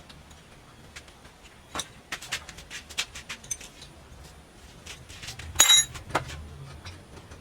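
Hard metal pieces clinking and rattling as they are handled, in a string of light knocks and then one louder clattering clash with a brief ring, about two thirds of the way through.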